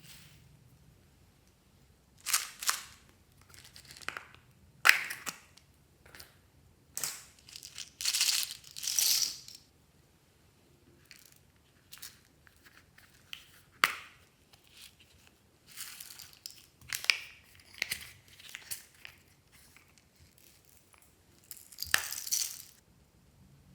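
Hands pressing and mixing slime with crunchy mix-ins: irregular bursts of crunching and crackling, some with sharp clicks, separated by short quiet gaps, with a longer stretch of crunching about eight seconds in.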